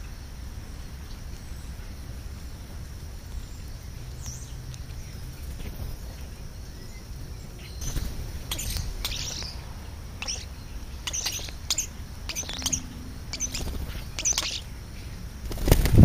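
Birds chirping: a run of short, sharp chirps from about halfway through, over a steady low background hum. A loud low rumble starts just before the end.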